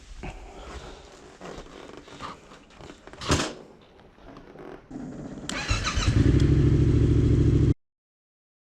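Small handling clicks and knocks, one of them sharp and loud. Then a starter turns over a 2021 Yamaha MT-07's 689 cc parallel-twin engine, which catches and idles loudly through a full Mivv exhaust with the catalyst removed and no dB killer. The sound cuts off abruptly near the end.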